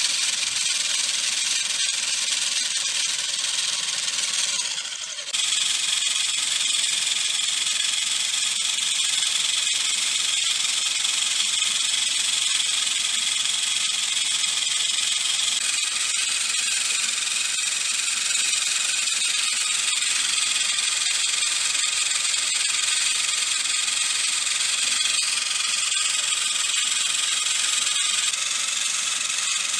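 A small motor running steadily with a high whine, cutting out briefly about five seconds in and then running on.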